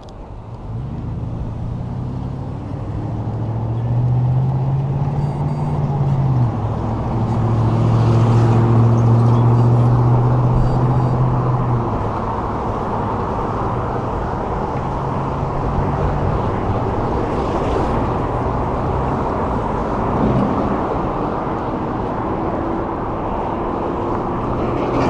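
Road noise and wind rush while riding an e-bike in traffic, with a deep vehicle hum that rises in pitch over the first few seconds, holds steady, and fades about twelve seconds in.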